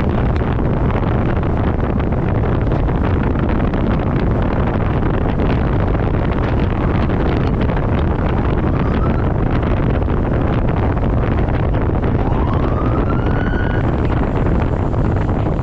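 Steady, loud wind buffeting the microphone on a moving motorcycle, with a faint tone rising briefly about twelve seconds in.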